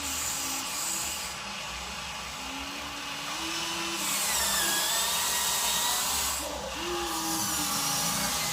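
Small electric motors and plastic gearing of a Huina RC dump truck whining, the pitch rising and falling several times as the throttle changes.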